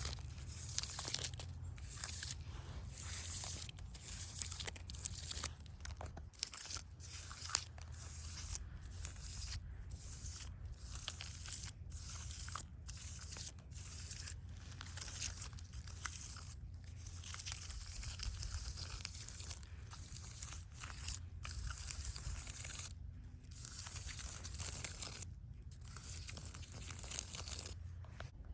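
Close-up scratching and crunching of dry plant material, rubbed in irregular strokes with brief pauses between them, over a low steady rumble.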